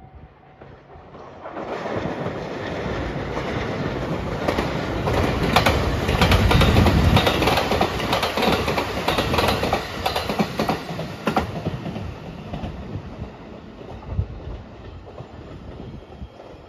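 JR West 223-series electric multiple-unit train (Rapid Marine Liner) passing close by, its wheels clicking rhythmically over rail joints. It builds up over the first couple of seconds, is loudest around the middle, and fades away toward the end.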